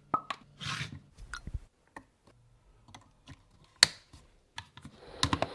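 Scattered sharp clicks and taps of small hard parts being handled, one louder snap about four seconds in and a quick run of clicks near the end, as a nebulizer is set up.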